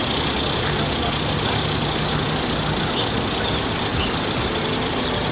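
Steady rushing noise with a low engine hum underneath, like vehicle traffic.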